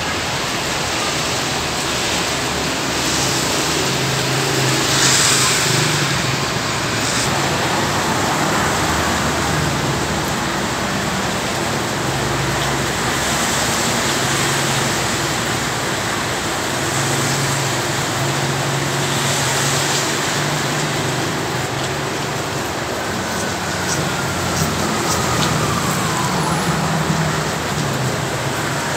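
Heavy rain falling with a steady hiss, mixed with motor vehicles running and passing; a low engine hum rises and fades several times.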